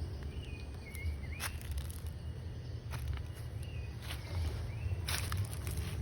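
Outdoor ambience: a steady low rumble of wind on the microphone, with several brief rustling sounds close by and a few faint short whistled calls in the distance.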